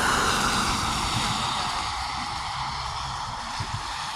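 Road traffic: a vehicle passing, its noise loudest at the start and slowly fading.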